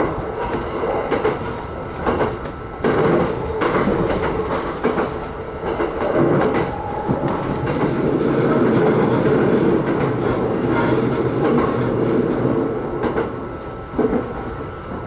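E129-series electric train running along the line, heard from on board: a continuous running rumble with wheels clicking over rail joints now and then. The rumble swells louder in the middle.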